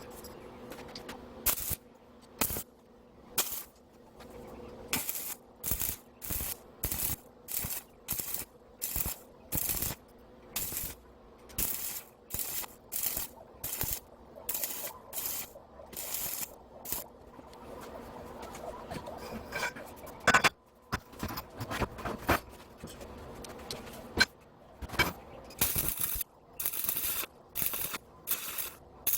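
Hand file rasping in even strokes, about one and a half a second, with a short break midway marked by a couple of sharp knocks before the strokes resume.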